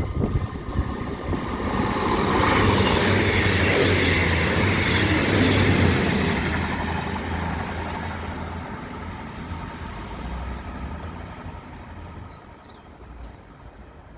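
A train passing close by. The noise builds over the first couple of seconds, is loudest for a few seconds with a steady low hum, then fades away as the train recedes.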